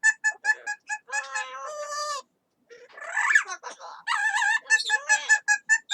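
Yellow-crowned amazon parrot calling in fast runs of short, clipped notes, about five a second. It breaks off briefly about two seconds in, gives one longer call that rises and falls, then goes back to quick repeated notes.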